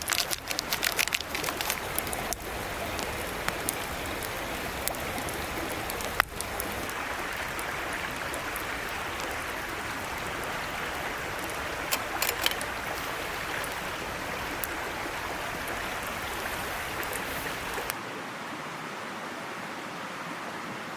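Small mountain stream babbling steadily, with scattered sharp clicks in the first couple of seconds and again about twelve seconds in. Near the end the water sound turns slightly quieter and loses its low rumble.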